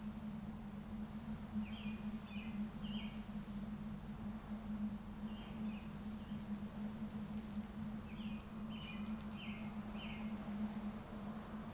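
A small bird chirping in short runs of three to five quick notes, several times over. Underneath is a steady low hum and a soft even background noise.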